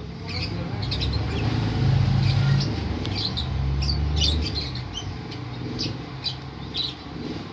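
Lovebird giving short, high chirps, about two a second. A low, steady rumble runs under the first half and fades out.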